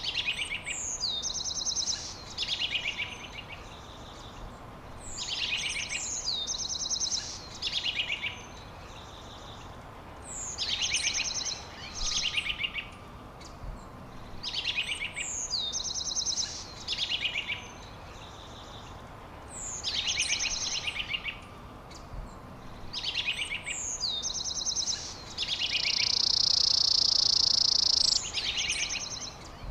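A songbird singing the same short phrase over and over, about every three to four seconds: a falling whistle followed by rapid high trills. Near the end a steady high buzz runs for about two seconds and is the loudest sound.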